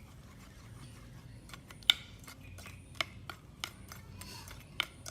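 Irregular sharp clicks and light taps of small hard objects, about ten in five seconds, the loudest about two seconds in.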